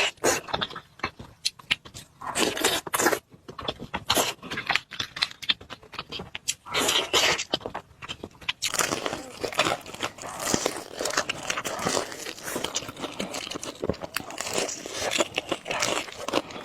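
Close-miked eating: biting, crunching and chewing of food in sharp, irregular crackles. The crackling becomes denser and continuous about halfway through.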